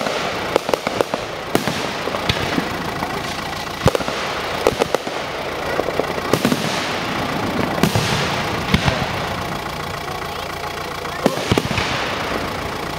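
Aerial firework shells bursting overhead: an irregular series of sharp bangs, some coming in quick clusters of two or three, over a steady background rush.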